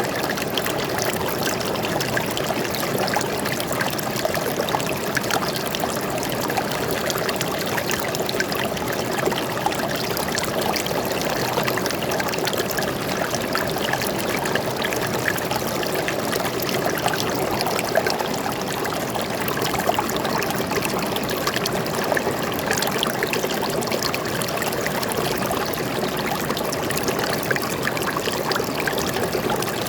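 Flowing stream water, a steady trickling rush that holds even throughout.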